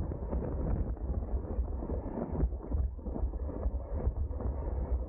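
Wind buffeting the microphone of a camera on a bicycle moving at race speed: a steady, gusty low rumble.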